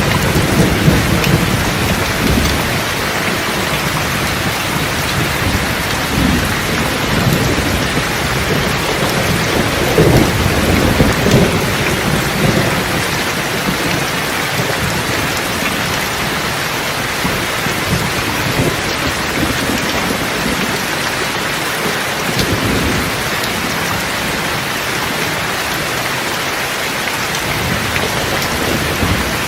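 Steady heavy rain with thunder rumbling low underneath, swelling near the start and again about ten seconds in.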